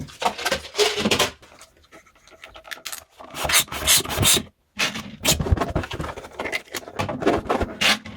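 Irregular rubbing and scraping as a rubber balloon and a plastic bottle are handled, in uneven bursts.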